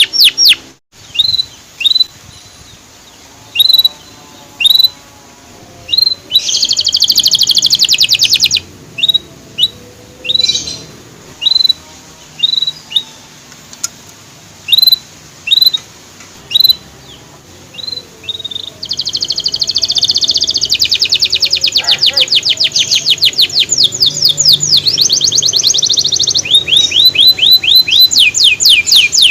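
Male canary chirping: short single 'cuit' notes about once a second, breaking into a brief fast trill about a quarter of the way in, then a long fast trill from about two-thirds of the way through.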